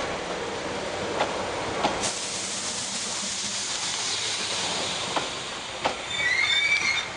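Hankyu 3000 series electric train rolling slowly into the station: a steady rolling hiss of wheels on rail, with pairs of clacks as wheelsets cross rail joints. Near the end a wavering high-pitched squeal starts as the train slows.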